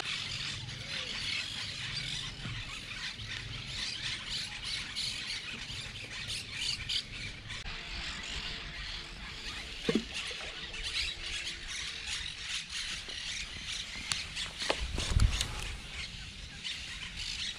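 Outdoor ambience with birds squawking and calling over a steady high hiss, and a brief low rumble near the end.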